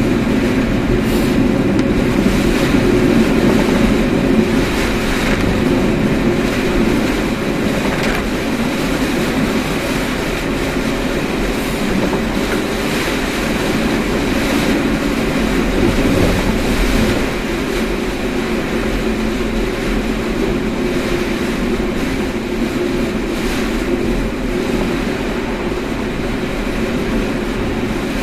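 Steady road and tyre noise of a moving car, heard from inside the cabin, with a few faint knocks.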